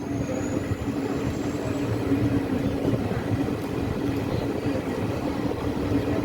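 Passenger train running along the track, a steady rumble with a constant low hum.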